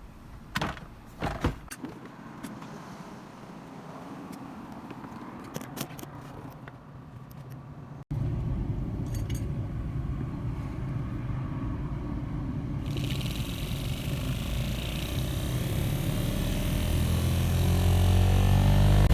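A few jingling clicks like car keys, then a car's engine running. Partway through, a blower-like hiss comes in and a low droning rumble builds steadily louder toward the end: the loud abnormal noise and vibration this car makes with the air conditioning on.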